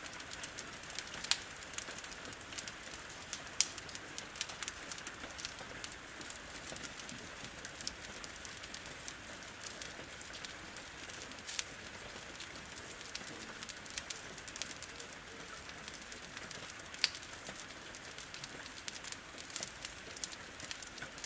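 Wood fire crackling with frequent sharp, irregular pops over a steady hiss of rain.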